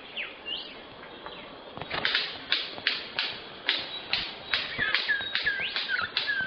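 Rainforest birds calling: rising and falling whistled sweeps, then from about two seconds in a regular run of sharp, whip-like calls about two a second, mixed with curving whistles.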